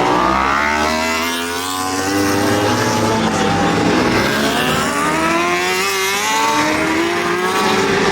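Superbike racing engines at full throttle, their pitch repeatedly climbing and dropping as they accelerate and change gear.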